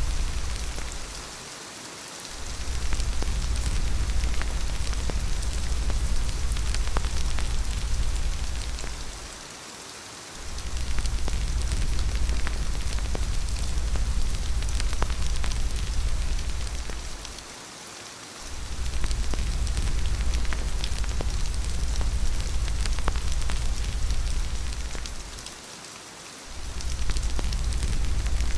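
Steady rain falling, with a deep low rumble of wind underneath that fades out briefly about every eight seconds, and scattered small crackles.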